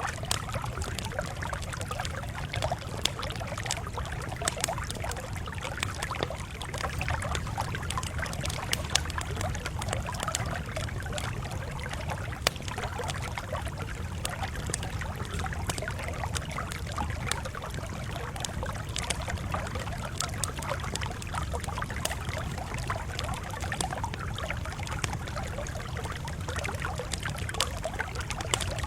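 Campfire crackling, with frequent small sharp pops and snaps over a steady low rumble.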